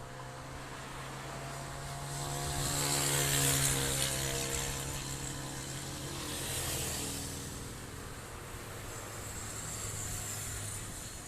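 A motor engine humming at a steady pitch, swelling to its loudest about three to four seconds in and then fading, over a rushing hiss that rises and falls in gusts.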